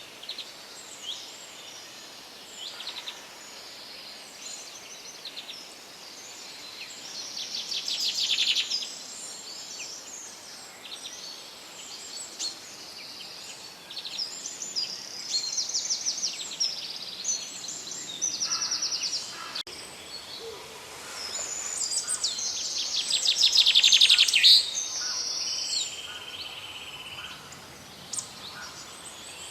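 Forest birdsong: several birds calling and singing at once, with rapid trills, louder about a quarter of the way in and again near the end, over a faint steady hiss.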